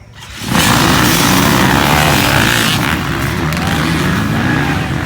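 Dirt bike engine running loud at high revs, starting suddenly about half a second in and holding steady.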